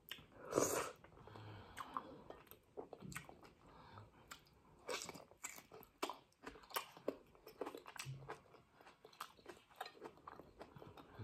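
Close-miked mouth sounds of a person chewing chewy meat from a stew of beef tripe and cow skin: irregular wet smacks and clicks of lips and teeth. A louder, longer smack comes about half a second in, as fingers are licked.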